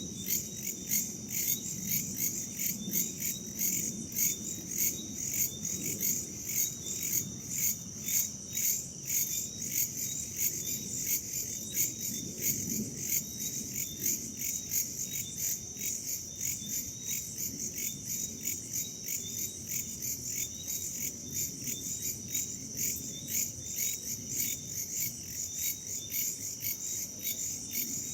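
A night chorus of crickets and other insects chirping steadily, pulsing about twice a second, over a low rumble of wind.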